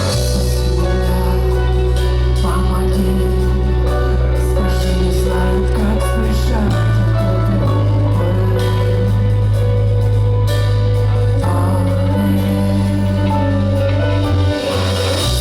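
Live band playing a song through a club PA, with heavy sustained bass notes that shift pitch every few seconds under guitar chords and a singing voice.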